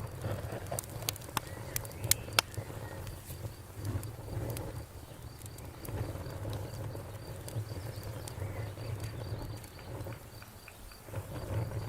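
Campfire burning with irregular sharp crackles and pops over a low steady rumble. The two loudest pops come about two seconds in.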